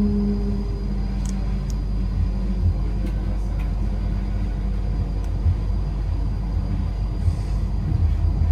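Low, steady rumble of a train at a station, with a humming tone that fades out about two seconds in and a few faint clicks.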